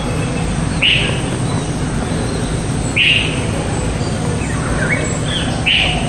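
Bird chirps: three short, clear calls about two seconds apart, with a few fainter twittering notes between the last two, over a steady background hiss and rumble.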